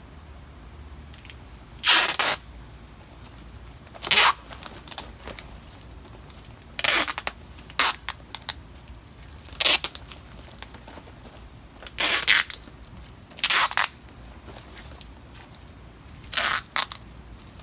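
Box tape pulled off the roll in about nine short, loud rasps a second or two apart, as strips are stuck down over a vacuum-bag filter.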